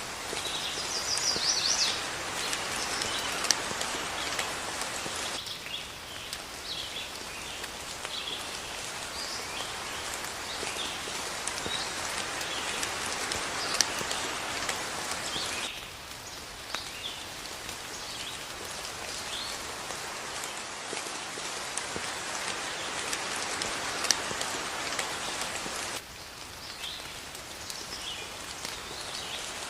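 Steady rain with birds chirping over it in short calls. The rain noise changes level abruptly about every ten seconds, as if the recording is looped.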